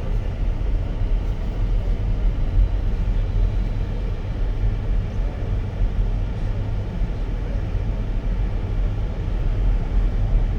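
Steady low rumble of car road and engine noise heard from inside the cabin while driving.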